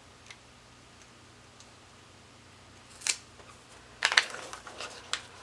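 Planner sticker sheets and paper being handled: a short crinkle about three seconds in, then a louder burst of paper rustling and a few sharp clicks near the end.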